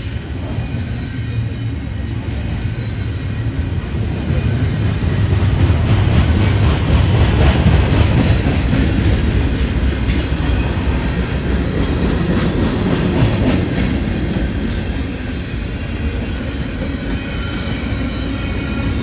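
A train rolling past, a steady rumble with wheels clicking over the rail joints, swelling louder about a third of the way in and then easing off.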